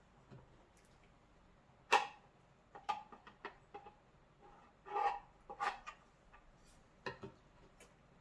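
Irregular light knocks and clicks, with a short scrape about five seconds in: parts and tools being handled and set down on a workbench.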